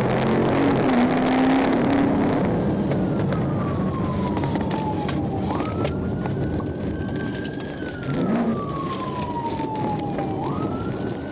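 Police siren wailing, its pitch sliding slowly down for about three seconds and jumping back up, twice, over the steady engine and road noise of a patrol car driving at speed.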